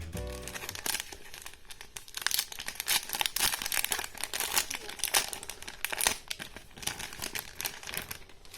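Crinkly packaging wrapper being handled, giving a stream of irregular crinkling and rustling.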